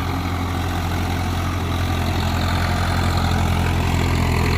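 Swaraj 744 FE tractor's three-cylinder diesel engine running steadily, growing slowly louder.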